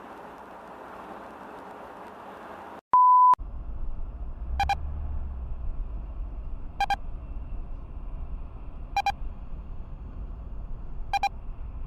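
Dashcam road and cabin noise, cut by a loud, short censor-style bleep, a pure steady tone, about three seconds in. A lower rumble follows, with a short pitched blip repeating about every two seconds.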